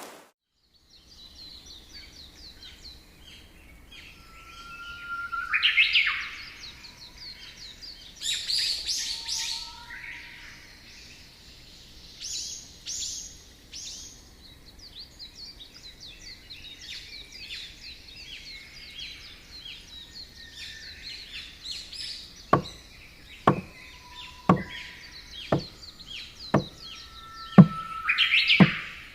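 Wild birds chirping and singing, many short calls overlapping. In the last seven seconds a series of sharp knocks comes about once a second, seven in all.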